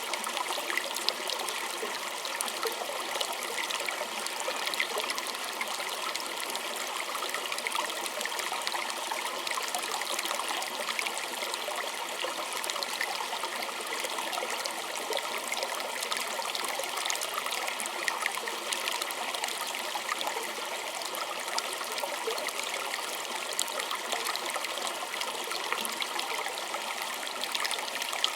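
Small stream running over stones, a steady trickling and gurgling without a break.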